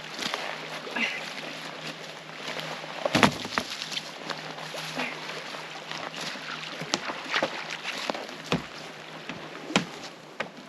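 Driftwood being cleared by hand: scattered sharp knocks of wood striking wood, with heavier thuds about three seconds in and again after eight seconds, over a steady rush of wind and water and a faint low hum.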